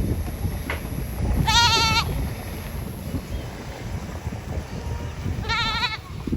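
An animal calling twice: two short, high, wavering cries about four seconds apart, over low rumbling background noise.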